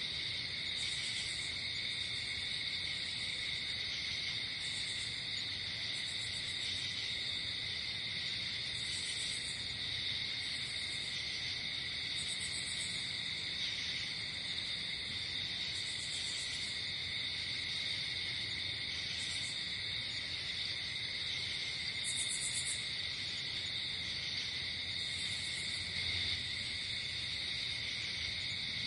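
Night insect chorus of crickets: a steady, unbroken high trill, with short bursts of a higher, buzzier chirp every second or two.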